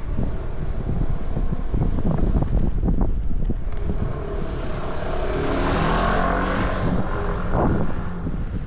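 Strong wind buffeting the microphone with a low, ragged rumble, and a vehicle passing close by, swelling about four seconds in and fading away a few seconds later.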